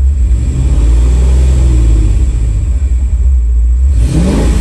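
Fox-body Mustang engine idling with a steady low rumble, then blipped with the throttle about four seconds in, its pitch rising as the revs climb toward about 1500 rpm.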